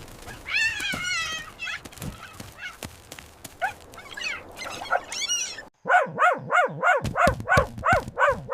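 Cartoon animal noises: a long wavering cat meow about half a second in and a few scattered short calls. From about six seconds comes a fast, even run of dog barks, about three a second, which a listener likens to a police siren.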